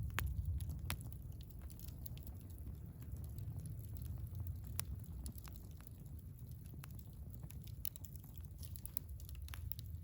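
Wood fire burning in a Picogrill 398 fire pit: firewood crackling and popping in irregular sharp snaps over a steady low rumble, with louder pops right at the start, about a second in and about halfway through.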